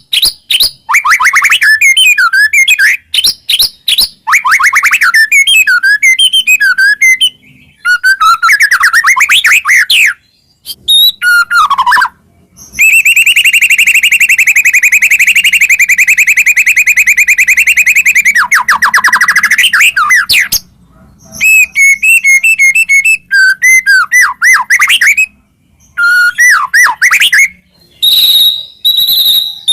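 White-rumped shama singing loudly: a varied run of rapid whistled phrases with gliding notes, broken by short pauses, and a long fast rattling trill lasting about eight seconds near the middle.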